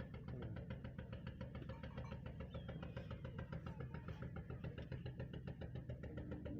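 An engine running steadily at idle, with a rapid, even knocking beat over a low hum.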